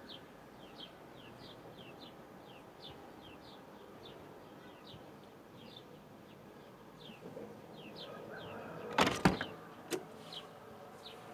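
Evening outdoor ambience: a small creature's short, high, falling chirp repeats two to three times a second over a steady low hiss and hum. About nine seconds in come a few loud knocks, then one more a second later, like the recording device being handled.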